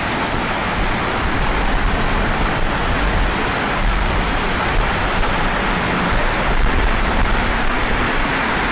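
Steady storm noise during a typhoon: wind and rain rushing, with a low rumble of wind on the microphone.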